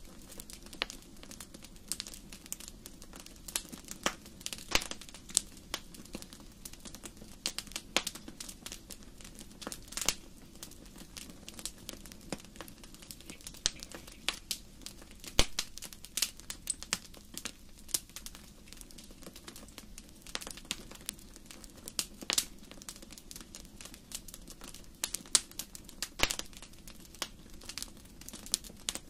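Wood fire in a fireplace crackling, with irregular sharp pops and snaps over a faint steady low rumble.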